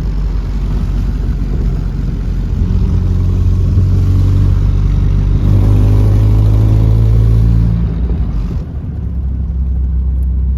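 Toyota Celica's newly installed engine pulling under acceleration, its note rising in pitch, stepping about halfway through and climbing again, then easing off near the end to a lower, steady running hum.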